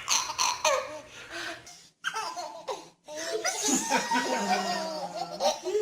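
A baby laughing in short repeated bursts, cut off suddenly about two seconds in; other voices with drawn-out pitched sounds follow.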